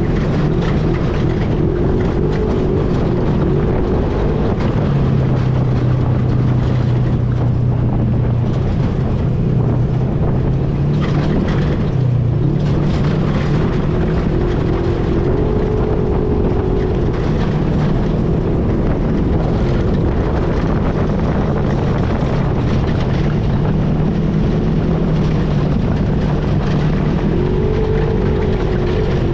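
ATV engine running under way, its pitch rising and falling with the throttle, with wind rushing on the microphone. The engine note dips briefly about twelve seconds in.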